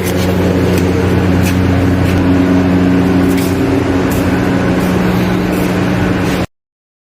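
Audi A3 engine idling with a misfire, a steady running note with occasional faint ticks over it. It cuts off suddenly near the end.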